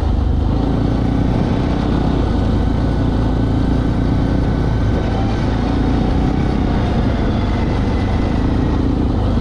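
Pit bike engine running steadily, a continuous low drone with no revving.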